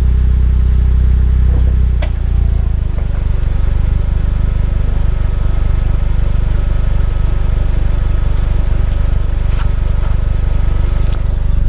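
Jeep Compass running, heard close to its rear differential: a steady low drone with a fine even pulsing that drops in level about two seconds in, with a few sharp clicks.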